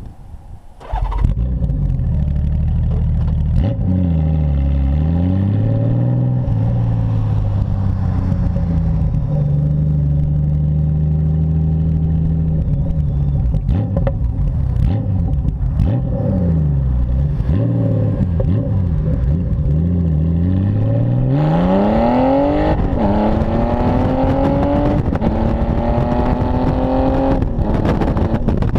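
Honda Gold Wing GL1800 flat-six engine breathing through a custom-built exhaust. It comes in suddenly about a second in and runs at low revs, its pitch sagging and recovering twice. Then, past the two-thirds mark, it pulls hard at wide-open throttle, the pitch climbing and dropping back at three upshifts.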